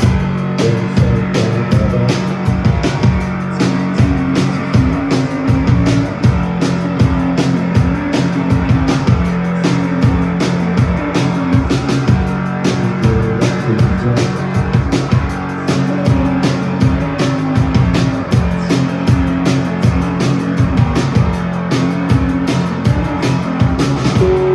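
Rock band playing live: electric guitar and bass over a steady drum beat.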